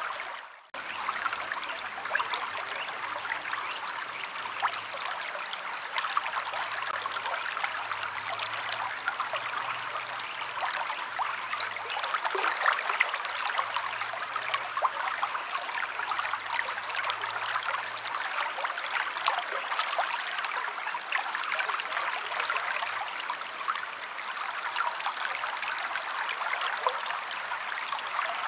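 Flowing river water: a steady rush dense with fine splashes and trickles, briefly cutting out about half a second in.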